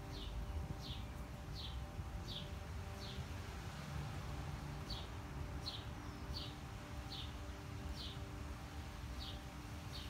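A small bird chirping repeatedly, a short falling chirp about every two-thirds of a second, breaking off for a moment around the middle and then resuming. Underneath is a steady low background rumble with a faint hum.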